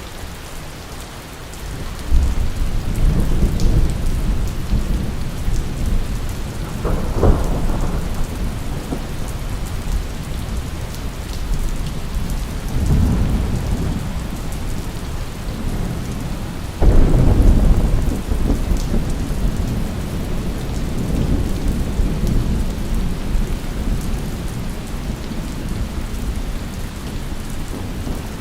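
Steady heavy rain with rolling thunder. Low rumbles swell and fade several times, the loudest cracking in suddenly about two seconds in and again past the middle.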